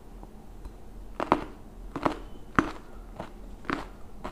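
Close-miked chewing of a mouthful of food: a series of about six short, sharp chewing sounds, starting about a second in.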